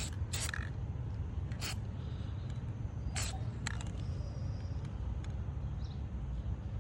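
Steady low outdoor background rumble, with about four short, faint clicks scattered through it.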